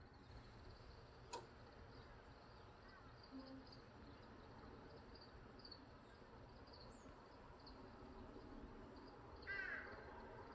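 Faint forest birdsong: small birds giving short high chirps again and again, a click about a second in, and a louder, harsher bird call near the end.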